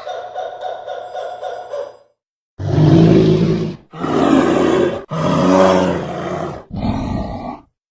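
A large animal roaring: four long, deep roars of about a second each, the last one shorter. They follow the fading tail of a higher call in the first two seconds.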